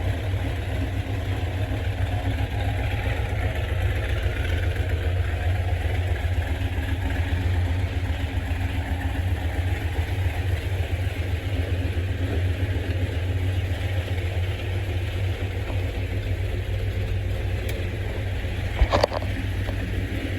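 Mopar car engine idling steadily, with a short clunk near the end.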